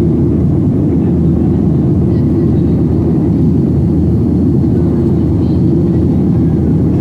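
Steady low cabin roar inside a Boeing 737-700 in its climb, from the CFM56-7B engines and the airflow over the fuselage.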